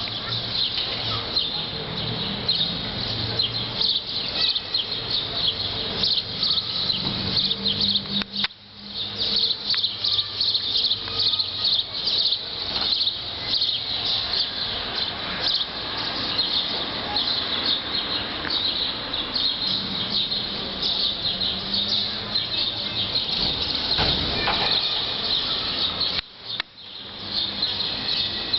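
Outdoor ambience dominated by a dense chorus of high, rapid chirping, birds or insects, with a faint low background rumble. The sound dips out briefly twice, about eight seconds in and near the end.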